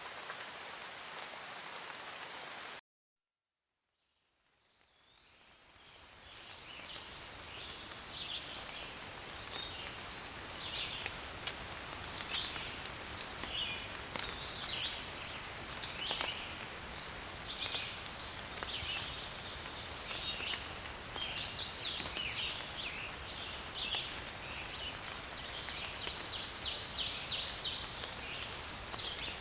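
Steady rain hiss that cuts off abruptly about three seconds in. After a short silence, a forest ambience fades in: many songbirds chirping and trilling over a steady hiss, with a quick run of trills near the end.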